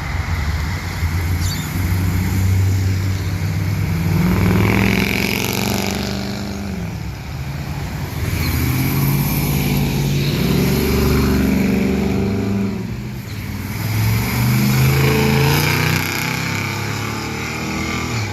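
Classic car engines running loud, their pitch climbing and falling away in several swells as the cars accelerate and ease off.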